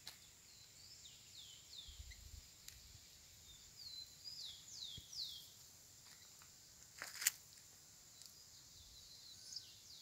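A bird singing: groups of three or four short, quickly falling whistled notes, repeated a few times, over a faint steady high insect hiss. A couple of sharp clicks about seven seconds in.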